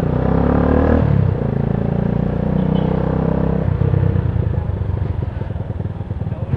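Motorcycle engine pulling away and accelerating, its revs rising in the first second, then dropping and changing pitch about a second and a half in and again near four seconds, as through gear changes.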